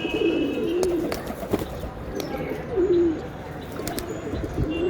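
Domestic pigeons cooing: low, warbling coos at the start and again about three seconds in, with a few sharp clicks between them.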